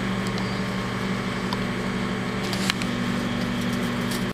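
Microwave oven running with a steady, loud low hum, with a few sharp crackles from CDs arcing and sparking inside it. The sound cuts off suddenly at the end.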